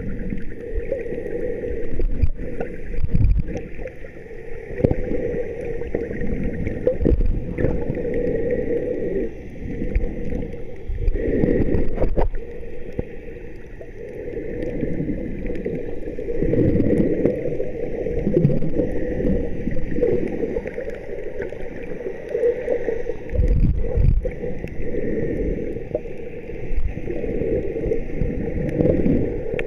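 Water sloshing and gurgling, rising and falling irregularly in loudness, with most of the sound low and dull.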